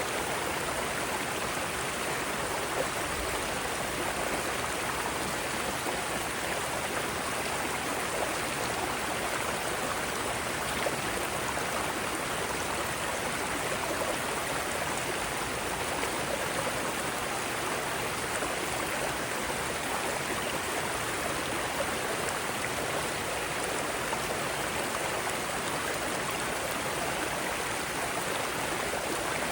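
Mountain stream rushing over rocky rapids, a steady, even water noise.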